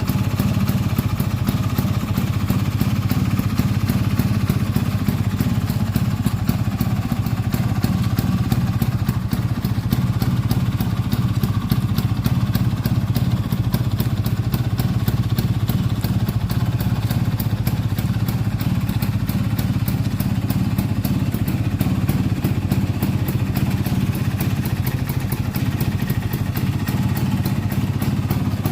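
1981 Vespa's two-stroke single-cylinder engine running steadily through a Polini Big Box exhaust, with an even, rapid firing beat and no revving.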